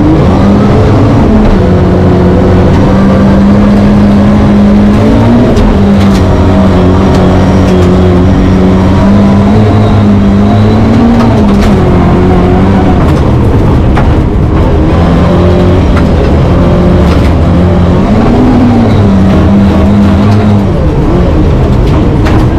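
Rally car engine heard from inside the cabin, running hard at high revs. Its pitch holds steady for several seconds at a time and dips and climbs back several times as the car lifts and shifts gear, with occasional sharp clicks over it.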